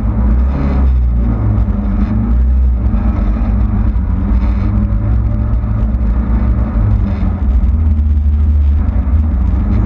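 Zastava Yugo race car's engine running hard at high revs, a loud continuous drone whose pitch shifts up and down several times.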